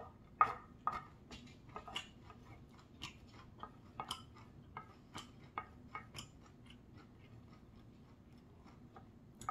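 Eating sounds: chewing of quinoa rice and greens, with sharp little clicks of a wooden spoon and chopsticks against a ceramic plate. The clicks come thick and irregular for about six seconds, then thin out.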